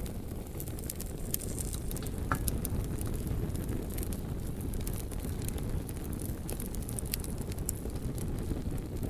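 Wood fire burning with a steady low roar, with frequent small crackles and pops scattered through it.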